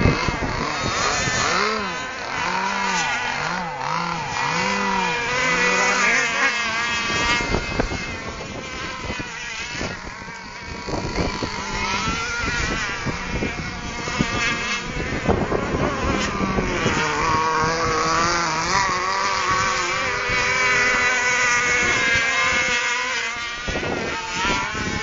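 Several radio-controlled catamaran boats running together, their motors whining and rising and falling in pitch as they throttle up and down and pass by.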